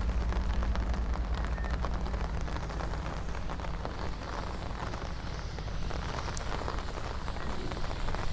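Steady rain falling on a city street, a dense spread of small drop ticks over a steady low rumble.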